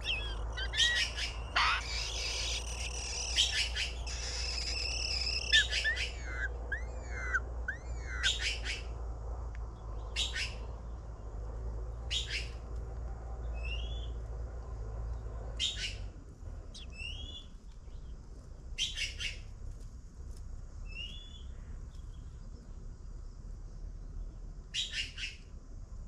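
Birds calling: a dense run of high chirps and whistled glides in the first few seconds, then single short, sharp calls every few seconds with a few soft rising chirps between them.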